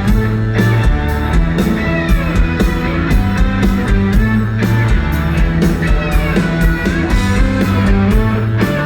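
Live rock band playing an instrumental passage between vocal lines: electric guitars with bending notes over bass and a steady drum beat.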